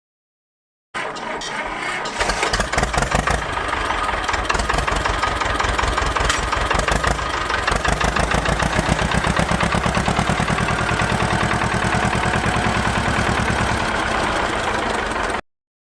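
Small petrol engine of a DIY mini tractor running steadily with rapid, even firing pulses. It comes in abruptly about a second in and cuts off abruptly near the end.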